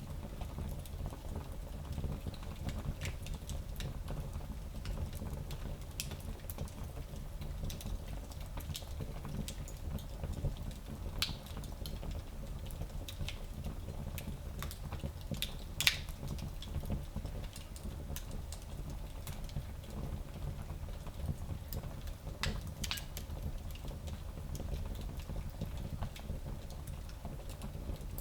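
Fire in a small fireplace crackling, with scattered pops and snaps and one louder pop about 16 seconds in, over a steady low rumble.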